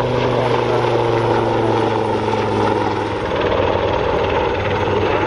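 Royal Navy Wildcat HMA Mark 2 helicopter flying a display, its rotor and engines running loudly. The steady low rotor tones fade about three seconds in.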